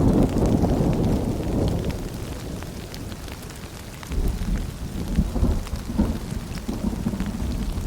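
Steady rain with low rolling thunder. The rumble eases a couple of seconds in and swells again about halfway through.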